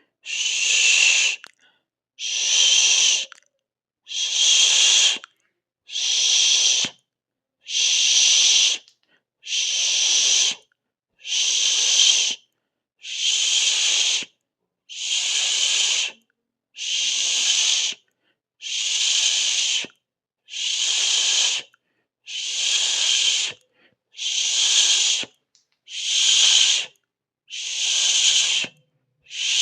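A person hissing ('sss', 'shh'-like siseo) in even, breathy bursts, each a little over a second long. There is one burst about every two seconds, with silence between them.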